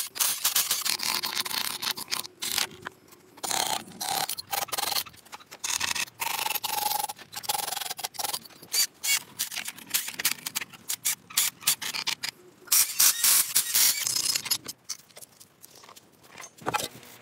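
Repeated rubbing and scraping strokes, as in hand sanding or scraping of a car body during restoration. The strokes come in irregular runs with short pauses between them.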